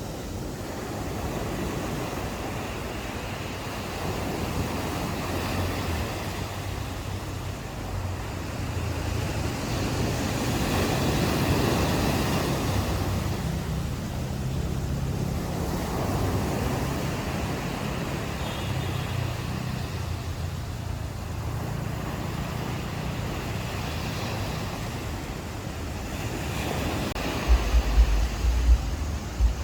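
Ocean waves washing onto a beach, the surf swelling to a peak about a third of the way in and falling away in slow surges. Wind buffets the microphone with low rumbling gusts near the end.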